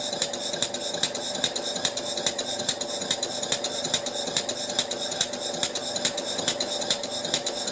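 Stuart Turner Victorian horizontal mill engine running on compressed air, its exhaust beating in a fast, even rhythm over a steady hum. It runs very smoothly, with no knocking.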